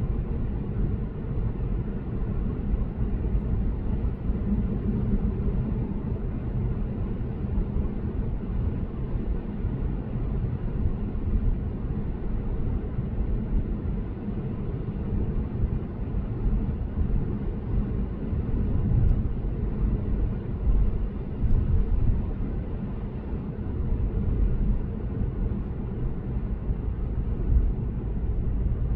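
Steady low road and tyre rumble from a Lexus GS450h cruising on an expressway.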